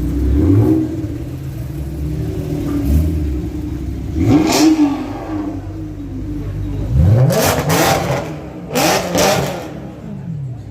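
A car engine revved in several short blips, each rising sharply in pitch and falling back to idle.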